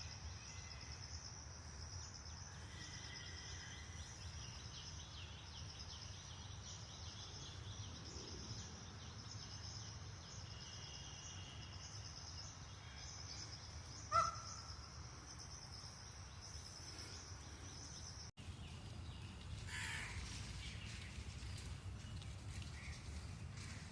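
Outdoor ambience of a steady, high insect drone, with one short, loud bird call about two-thirds of the way through. After a brief dropout near the end, a few fainter bird calls.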